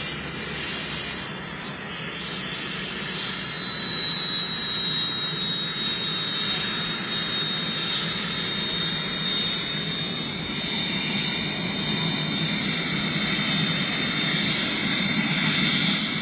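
Army helicopter's turbine engines running with a steady hiss and a high whine that slowly falls in pitch.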